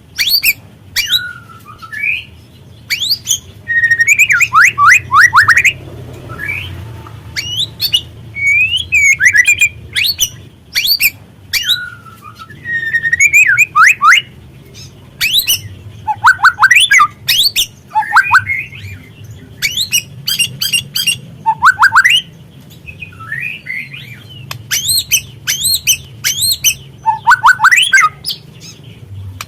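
Juvenile white-rumped shama calling: a busy stream of short, sharp chirps and quick runs of falling whistled notes. A faint low hum runs underneath.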